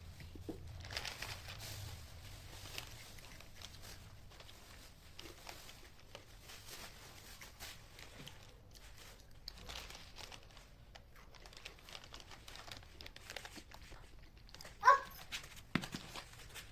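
Light crinkling and rustling of craft materials being handled, with a short, loud animal call about fifteen seconds in.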